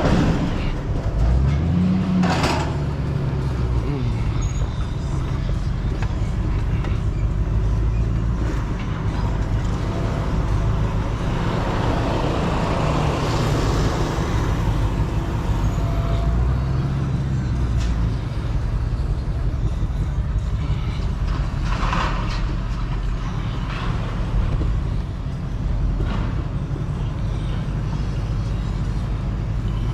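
Truck engine running steadily while the vehicle moves slowly, with a low drone throughout and two brief knocks or clunks.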